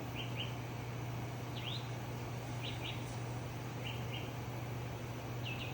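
A small bird chirping in short quick pairs of notes about once a second, over a steady low hum.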